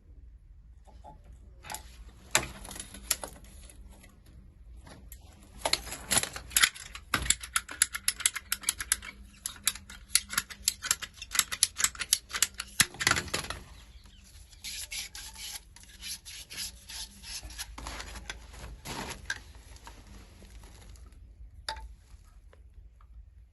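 Rapid, repeated rasping strokes, several a second, in two main bouts with a short break around the middle.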